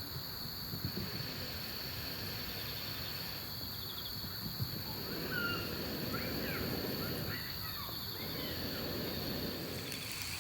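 Outdoor evening ambience: a steady high insect chirring, with a few short bird chirps about halfway through, over a low rustling.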